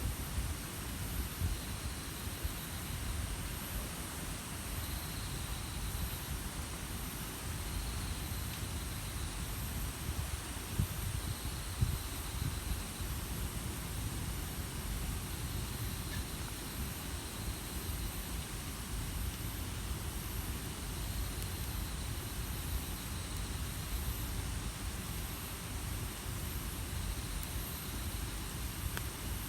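Wood campfire burning with a steady hiss and low rumble and an occasional pop, under faint high chirps that repeat every second or two.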